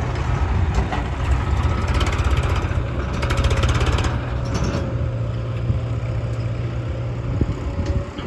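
Eicher 380 tractor's diesel engine running steadily, with a brief fast rattle about three seconds in.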